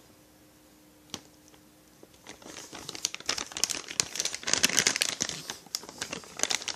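Plastic packaging being handled and unwrapped, crinkling and rustling, starting about two seconds in after a single click.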